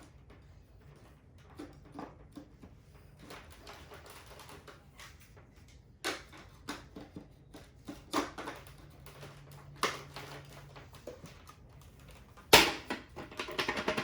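Scattered clicks and knocks of a Shark vacuum's plastic parts and filters being handled, with a louder sharp knock near the end; the vacuum's motor is not running.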